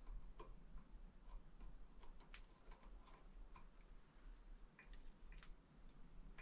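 Faint, scattered small clicks and ticks of hand work on a handlebar lever fitting, as its new countersunk screw is tightened and the fit checked.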